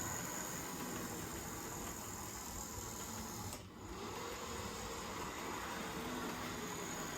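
Hornby model railway locomotive running on Code 83 track, its small electric motor and gears whirring steadily, briefly quieter about halfway through. No flange ticking is heard: the large Hornby flanges are clearing the rail fastenings without trouble.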